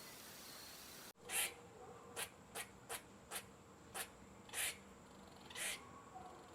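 A domestic cat hissing in a quick series of short, breathy bursts, about eight in five seconds.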